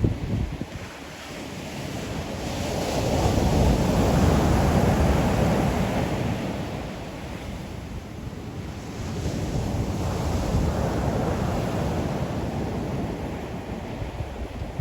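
Ocean waves breaking on the shore, the surf rising and falling in two broad swells, with wind buffeting the microphone.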